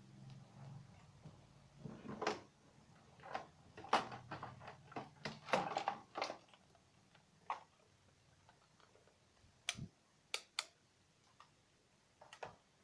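Handling noise of a multimeter and its test leads being picked up and set out: a run of knocks and rustles in the first half, then three sharp clicks about half a second apart and a couple of fainter ones near the end.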